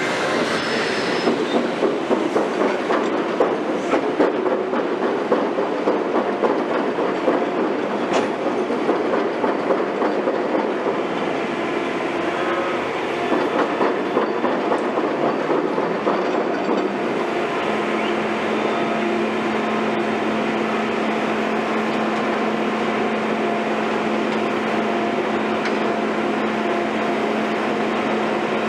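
Heavy construction machinery working, a dense metallic clattering and rattling for the first half. After that it settles into a steady engine drone with a held hum.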